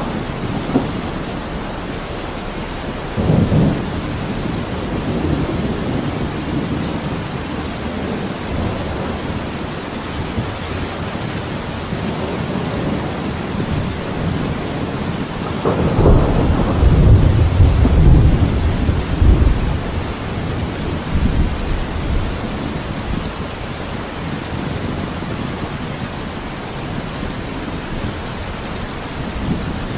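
Steady heavy rain with thunder: a short rumble about three seconds in and a longer, louder rolling rumble lasting several seconds about halfway through.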